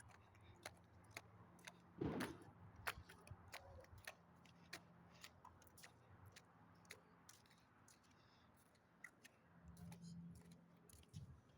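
Near silence: a faint low hum with scattered small clicks and taps, one louder tap about two seconds in.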